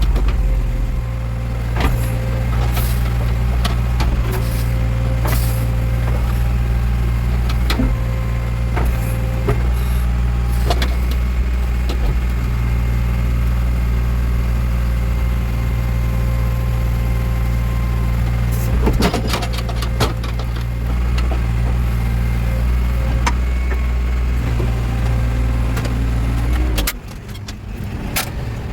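Backhoe loader's diesel engine running steadily under hydraulic work, with occasional sharp clanks and knocks from the digging gear. Near the end the engine sound drops off suddenly.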